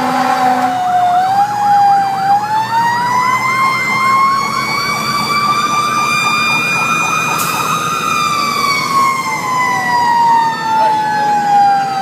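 Fire engine sirens sounding: one tone slowly climbs for several seconds and then winds down, while a second siren warbles rapidly over it until about seven seconds in; near the end another tone sweeps across it.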